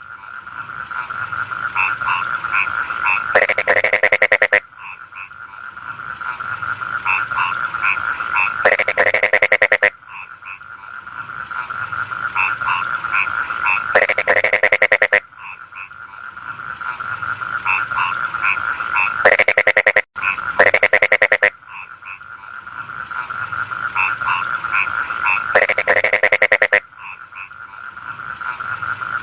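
Rice-field frogs calling in chorus. A loud croak made of rapid pulses, about a second long, comes roughly every five seconds, with short chirping notes between, over a steady high trill.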